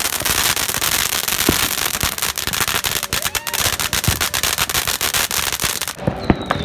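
Consumer fireworks going off: dense, rapid crackling and popping. About six seconds in it changes to sparser bangs with a falling whistle.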